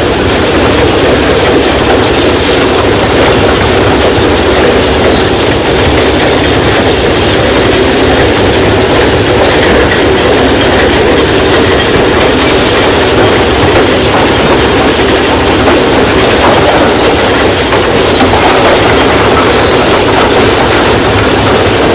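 Stone crushing machine running under load: a loud, steady rumble and dense rattling of rock being broken, with no let-up.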